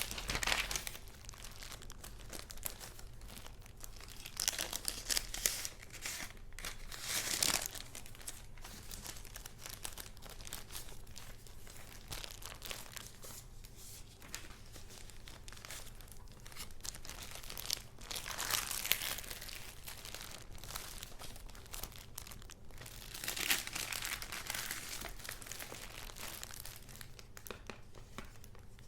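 Paper rustling and crinkling as junk journal pages and paper goods are handled, in several short louder bursts with quieter handling between.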